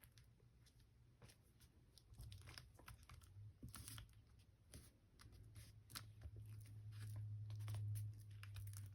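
Faint crinkling and rustling of paper with scattered small clicks, as glued paper layers are pressed and handled, over a low steady hum that grows louder in the second half.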